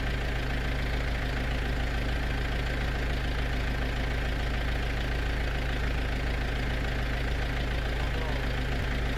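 Steady, unchanging drone of a running motor or machine, with a strong low hum.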